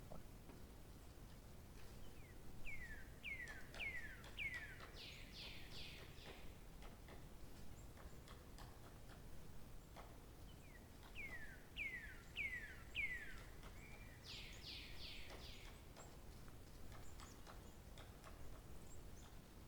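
A songbird sings the same phrase twice, about eight seconds apart. Each phrase is four or five quick down-slurred whistles followed by a short, rapid trill, over a faint steady hiss.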